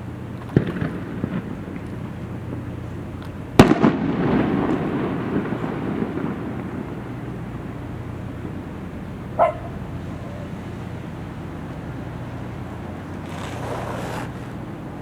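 Aerial fireworks shells bursting. A sharp bang comes about half a second in and a much louder boom near four seconds, followed by a couple of seconds of rolling rumble and crackle.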